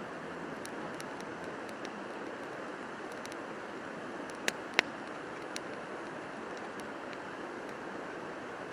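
Steady rushing of a river flowing past. Two sharp clicks come close together about four and a half seconds in, with a few faint ticks around them.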